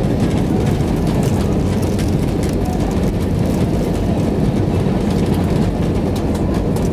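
Steady rumble of an Airbus A319 airliner heard from inside the cabin: engine and airflow noise, with light scattered clicks and rattles.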